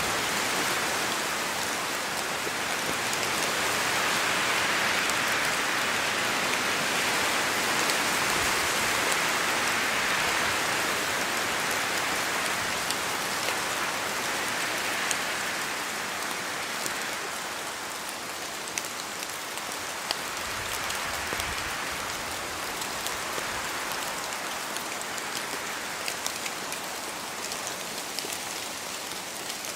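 Steady rain falling on a forest, with a broad wash of rain and wind that swells through the first part and then eases. Scattered individual drops fall from the trees and tick, more of them in the second half.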